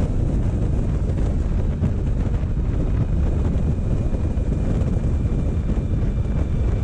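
Motorcycle running at a slow, steady pace, its engine mixed with heavy wind rumble on the microphone. A faint high whine comes in about halfway through.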